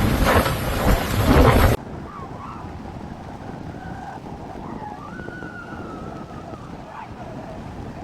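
Strong wind buffeting the microphone in gusts. It cuts off abruptly after about two seconds, leaving a much quieter steady background with faint wavering tones.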